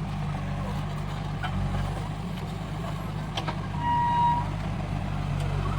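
Heavy diesel engine running steadily at a low, even pitch, with a single clear beep lasting under a second about four seconds in.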